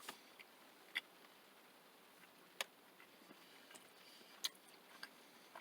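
Near silence broken by a handful of short, sharp clicks at irregular intervals, the clearest about a second in, midway and near the end.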